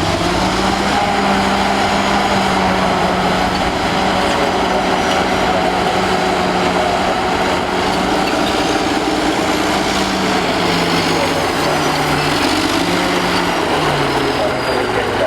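Old Caterpillar D8 bulldozer's diesel engine running loud and steady; in the last five seconds the engine note dips and comes back up several times.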